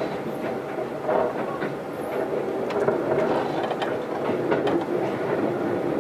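Interior running noise of a Keisei AE100 series train car under way: a steady rumble of wheels on rail with faint scattered clicks from the track.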